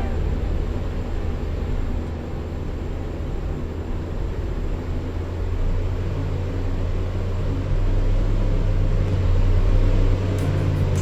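Ceiling fan running: a steady low hum and rumble that grows louder about eight seconds in.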